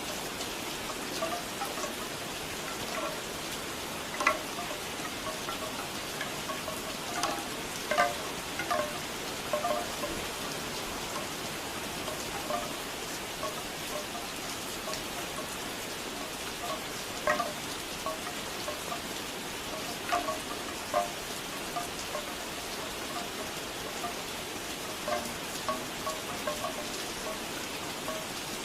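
Steady rain with bamboo wind chimes knocking now and then in small irregular clusters, a few strikes standing out louder than the rest.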